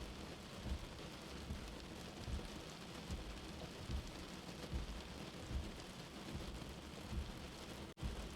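Steady rain, with a low, soft heartbeat thump about every 0.8 seconds underneath it. A momentary dropout near the end.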